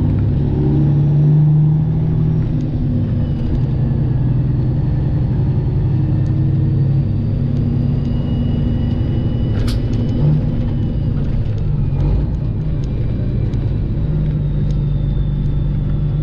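Straight-piped Detroit Diesel 12.7 engine of a Freightliner Classic XL semi truck running steadily with a deep rumble.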